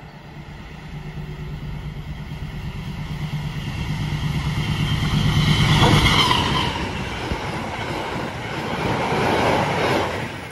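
Diesel locomotive hauling a passenger train approaches and passes close by. Its engine drone builds to a peak about six seconds in, with a whine that drops in pitch as it goes past. The rumble of the passenger coaches' wheels on the rails follows.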